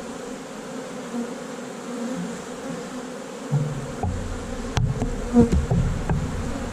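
A large honey bee colony buzzing steadily around the opened hive. From about halfway in, low rumbling and a few sharp knocks join the buzzing.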